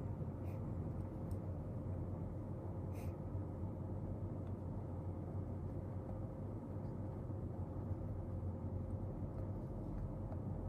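Steady low room hum with a faint steady tone, and a few faint soft clicks in the first three seconds.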